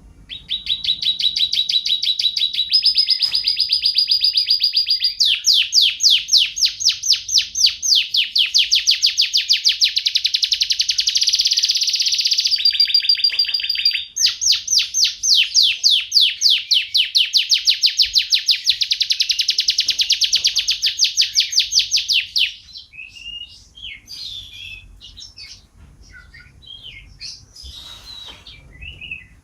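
A songbird singing long, very fast, high trills of rapidly repeated notes, with a brief break about halfway; after about 22 seconds the song turns into quieter, scattered, varied chirps.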